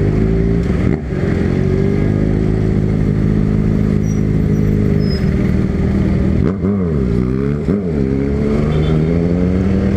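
Single-cylinder Honda CB300 with a Taylor Made aftermarket exhaust, running loud under way. The engine note holds steady, with a brief drop about a second in and two quick dips and climbs in revs around seven and eight seconds in.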